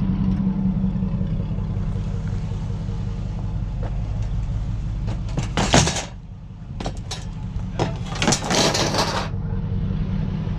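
Vehicle engine idling steadily. Short bursts of rattling and clattering come about five and a half seconds in and again from about eight to nine seconds, the louder and longer of them near the end.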